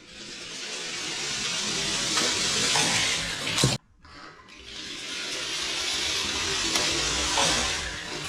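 Diecast toy trucks rolling down a plastic race track, a steady rolling hiss that builds in loudness. It cuts off abruptly just before four seconds in, then builds again.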